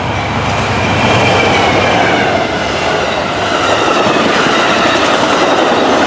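Amtrak passenger train passing close by, steel wheels rolling on the rails in a steady loud rush. A faint high wheel squeal wavers above it from about a second in.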